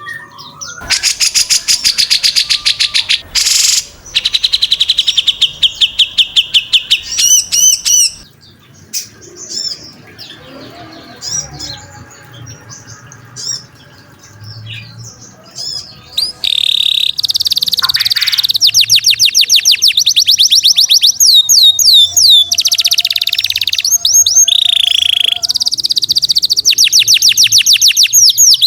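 Recorded songbird song of the competition 'tembakan' kind: loud, very fast runs of sharply repeated high notes and ringing trills. There is a softer, quieter stretch of chatter in the middle before the rapid trilling returns.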